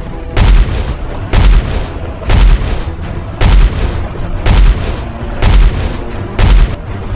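Deep, heavy booms about once a second, seven in a row, a slow marching stomp laid over a low steady bed of score.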